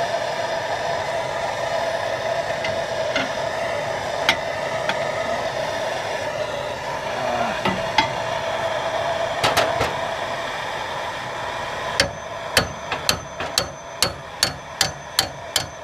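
Steady hissing with a few single knocks, then from about twelve seconds in a regular run of hammer blows on metal, about three a second.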